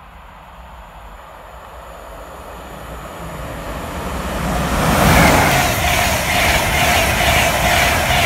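InterCity 225 electric express, Mk4 coaches, running through at speed: the rumble grows louder as it approaches, and from about five seconds in the wheels on the rails make a loud, steady rush with a steady whine over it.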